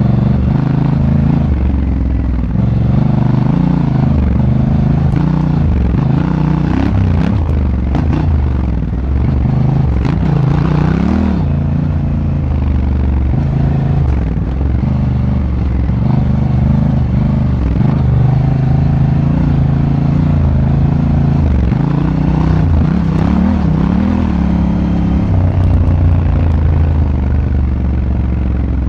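Honda Africa Twin's parallel-twin engine heard on board while riding, its pitch rising and falling with throttle and gear changes. Brief clattering bursts come around a third of the way in.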